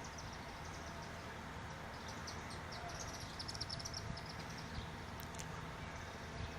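Steady low engine hum, with a rapid run of high chirps starting about two seconds in and lasting about two seconds.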